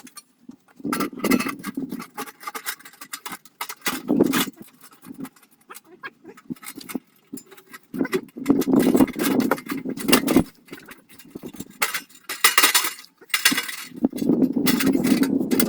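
Irregular knocks and metallic clinks of hands-on assembly work, coming in bunches with short pauses between.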